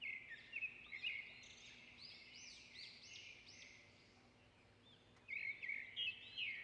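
Birds chirping: runs of quick, high, arching notes, pausing for about a second and a half before starting again.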